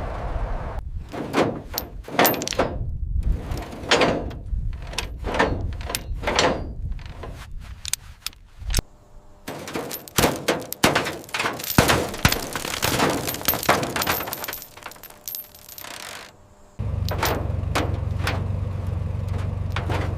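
Heavy steel chains clanking and knocking against metal in a long series of sharp, uneven strikes, some with a ringing edge. Near the end, a steady low engine hum starts abruptly.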